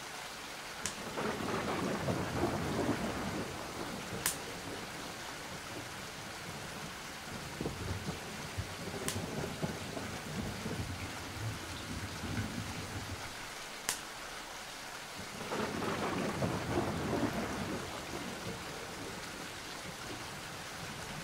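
Steady rain with thunder rolling in twice, once about a second in and again past the middle. A few sharp ticks stand out over the rain.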